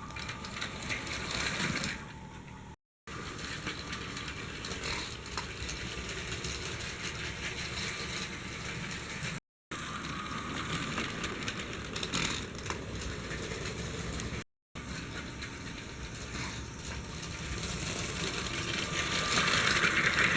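LEGO Powered Up train motor running, with the plastic wheels rattling and clicking along the track. The sound cuts out briefly three times where shots are joined.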